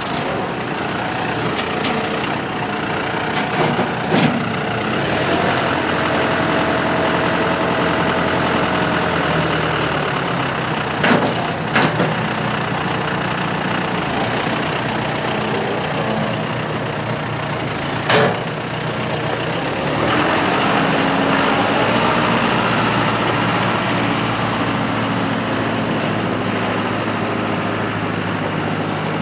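The 4-cylinder turbo diesel engine of a John Deere 5085E tractor running steadily, with a few sharp clunks along the way. About twenty seconds in, the engine gets louder and its note changes, as when the revs come up.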